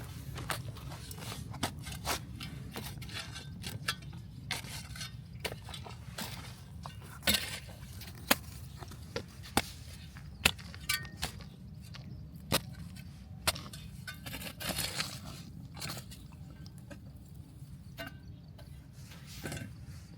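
Irregular sharp knocks and clinks with a few short scrapes, over a steady low rumble.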